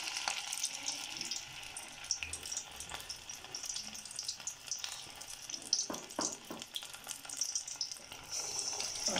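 Besan-battered chicken pieces deep-frying in hot oil in a karahi: a steady crackling sizzle, with a few sharper pops about six seconds in.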